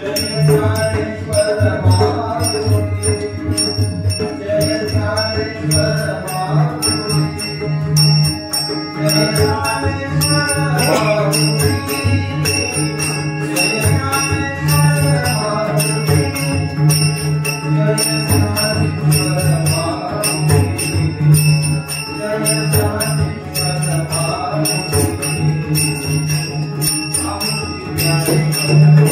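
Warkari bhajan: a male lead singer (buwa) singing a devotional melody over rhythmic jingling hand cymbals (taal) and a steady drum beat.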